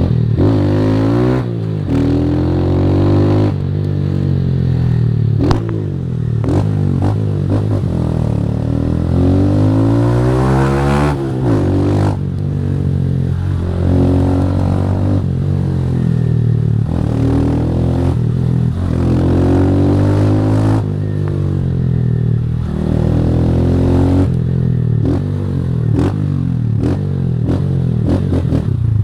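Single-cylinder Honda 160 motorcycle with a Fortuna Trioval aftermarket exhaust, ridden hard. The engine revs up and drops back again and again as the rider shifts through the gears.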